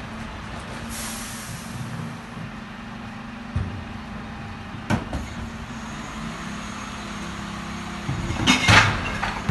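Garbage truck engine idling steadily, with a short hiss of air about a second in, a couple of sharp knocks, and a loud metallic clatter near the end.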